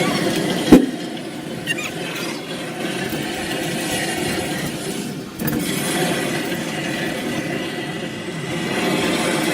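Amusement park ride running: a steady mechanical rumble, with one sharp knock shortly after the start.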